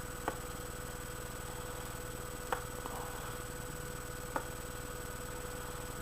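Steady electrical hum with four short, sharp clicks spread through it.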